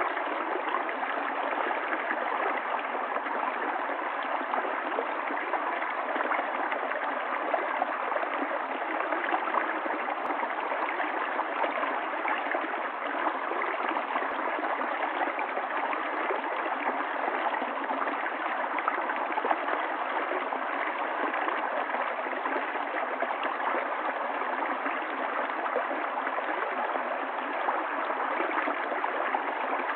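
Running water of a stream, flowing steadily and evenly without pause.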